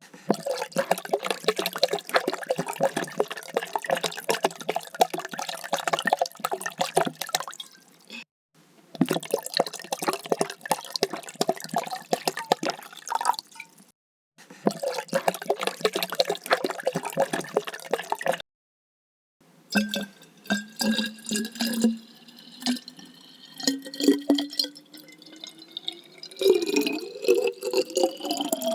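Water being poured, in four separate takes with short silent gaps between them: the first three a dense splashing, the last with a tone rising steadily in pitch as the container fills.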